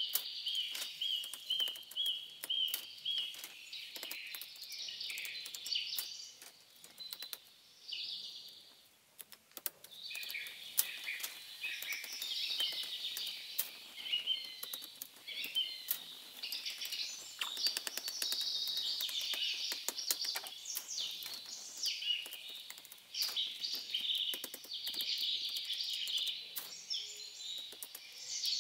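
Birds chirping and singing, opening with a fast run of repeated chirps at about five a second, with many short sharp clicks or taps scattered throughout.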